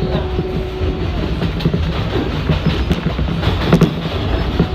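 R188 subway train running along the track on the 7 line, with a steady rumble and the clicks and clatter of its wheels over the rails. A steady tone fades out about a second in, and a cluster of sharp clicks comes near the end.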